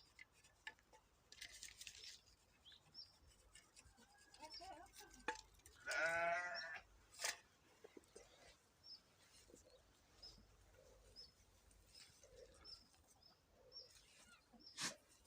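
A goat bleats once, a short wavering call about six seconds in. Faint high bird chirps repeat in the background, with a couple of sharp clicks.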